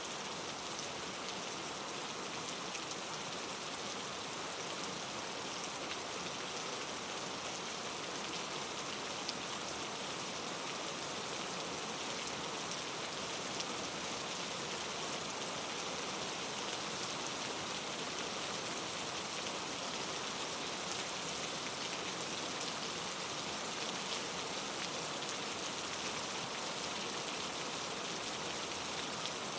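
Steady, even patter of falling precipitation on a surface: a continuous hiss dotted with fine ticks.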